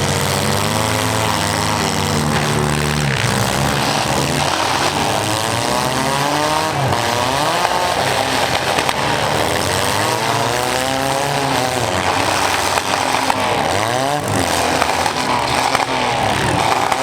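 Several compact-car engines running at once, revving up and down hard and overlapping throughout.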